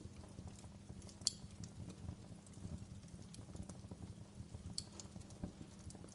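Wood fire crackling steadily over a low rumble, with two sharper pops, one about a second in and one near five seconds.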